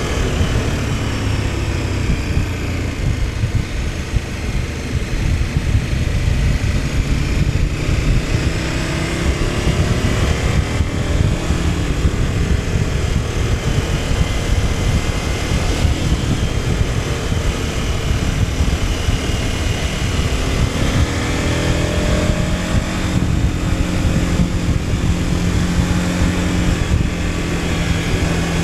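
KTM 1290 Super Adventure S's V-twin engine running under way, its pitch dropping over the first few seconds and climbing again about two-thirds of the way through, over a steady low rumble.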